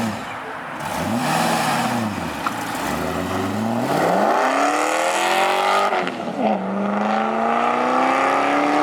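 Car engine revved twice, then accelerating hard with its pitch climbing, dropping at a gear shift about six seconds in, and climbing again.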